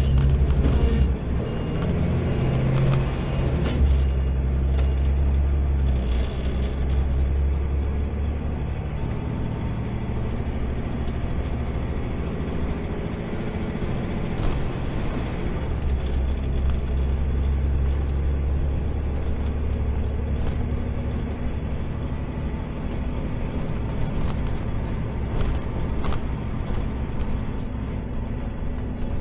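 Automated side-load garbage truck's engine running, heard from inside the cab, with scattered clicks and rattles. A row of short, evenly spaced high beeps sounds in the first few seconds.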